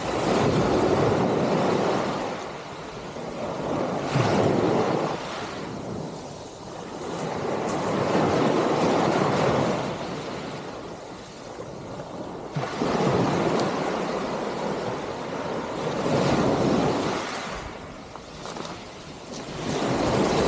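Sea waves washing onto the shore, swelling and ebbing every four seconds or so, with wind rumbling on the microphone.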